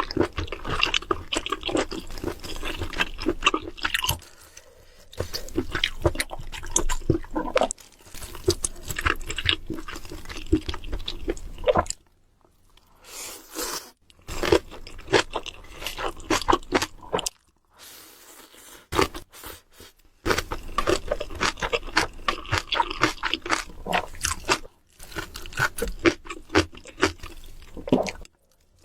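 Close-miked eating sounds: crunchy bites and chewing, in several runs of dense crackling separated by short pauses.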